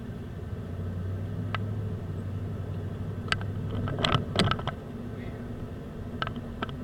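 A car's engine and road noise make a steady low rumble, with a low hum for the first few seconds. Several sharp clicks and knocks come through it, the loudest cluster about four seconds in.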